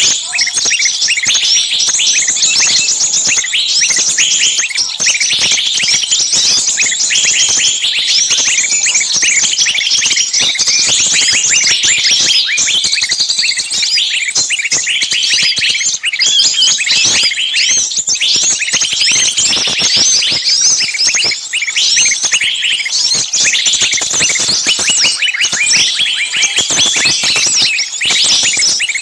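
Many small birds chirping and chattering at once in a dense, continuous chorus.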